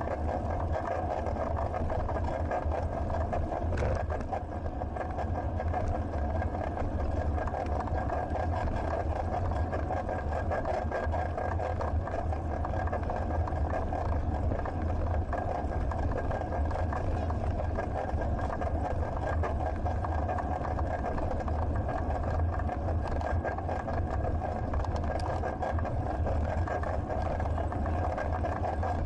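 Steady low rumble of riding noise, wind and tyres on the road, picked up by a Sony HDR-AS120 action camera's microphone on a moving bicycle. A faint steady high whine runs underneath.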